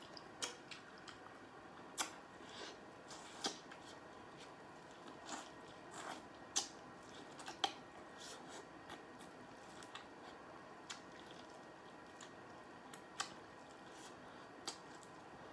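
Close-miked eating sounds: a person chewing and biting corn on the cob from a seafood boil, with irregular faint wet clicks and smacks.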